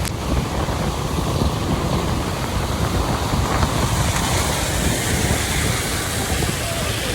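Steady rushing noise of traffic on a rain-wet road, with wind buffeting the microphone in an uneven low rumble.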